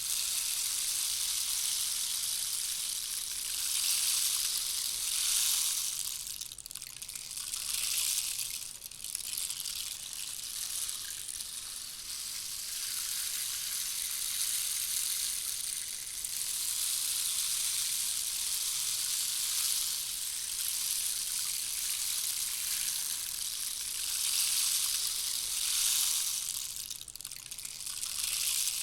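Handmade rain stick, 29 cm long, being played: a continuous rushing patter of its filling falling through the tube like heavy rain. It swells and eases, with brief lulls about a quarter of the way in and again near the end.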